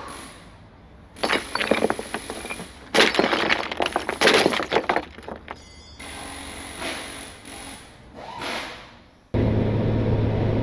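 Two bursts of cracking, shattering sounds, like breaking glass or wood, followed by a couple of softer whooshing swells.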